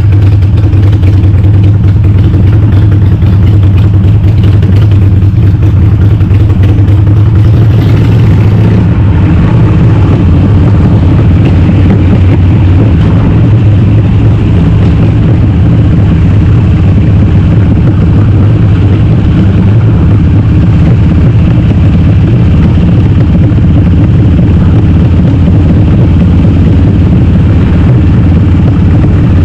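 Harley-Davidson Sportster's air-cooled V-twin, bored to 1200, running loud and steady under way through Cobra Speedster 909 pipes with the baffles (db killers) removed.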